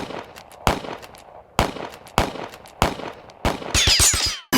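A series of loud, sharp percussive hits, about one every second, coming faster near the end along with a falling sweep.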